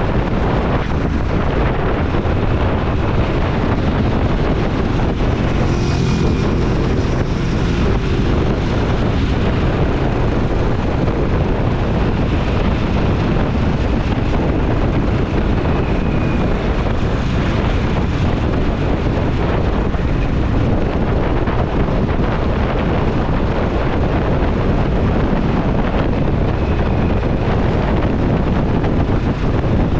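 Motorcycle riding at speed: heavy wind rushing over the camera microphone and the bike's engine running underneath. A clearer engine note shows through briefly about six seconds in.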